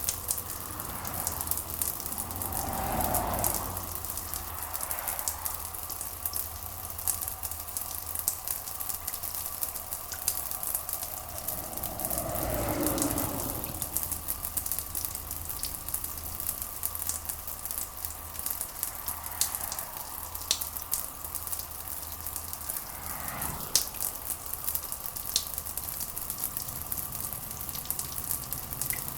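Steady rain ambience: an even hiss full of fine crackling drops, over a low steady hum. Three times, at evenly spaced intervals, a soft swell rises and fades in the middle range.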